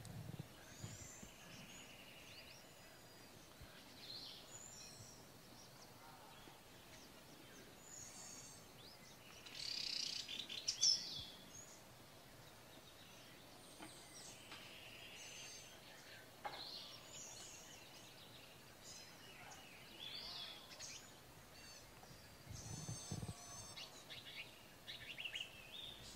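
Several birds calling and chirping with short trills and tweets, with a loud flurry of calls about ten seconds in and another cluster near the end.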